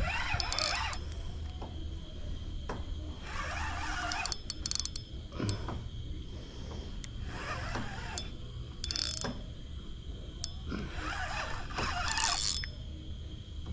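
Fishing reel ratcheting in about six separate bursts while a big blue catfish is fought on the line. The clicking comes and goes as the fish pulls line and the angler reels it back.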